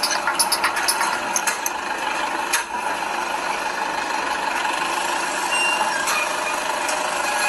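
Steady vehicle and street noise, with a run of sharp clicks in the first second and a half.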